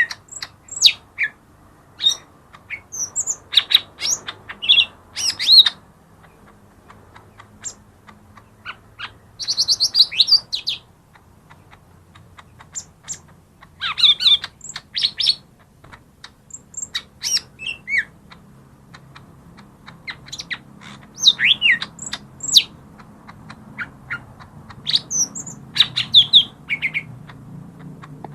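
Cucak ijo mini (a small leafbird) singing: clusters of sharp chirps and quick whistled phrases, each cluster lasting a second or two, with short pauses between them.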